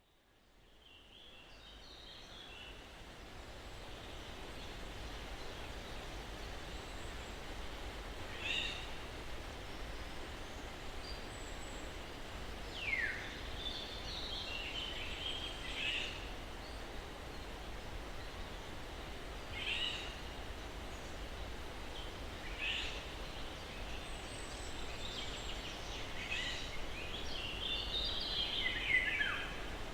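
Breeze through pine trees fading in from silence over the first few seconds, then a steady rustle with scattered birds chirping. Two calls, about halfway and near the end, sweep downward in pitch.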